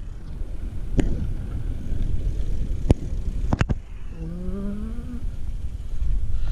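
Wind buffeting an action-camera microphone during a bike ride, a steady low rumble, with a few sharp clicks and knocks from the bike. A short tone rises in pitch about four seconds in.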